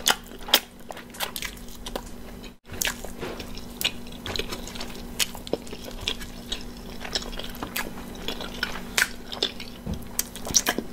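Close-miked eating: biting into and chewing oven-fried chicken wings and pizza, with frequent sharp, wet mouth clicks and smacks.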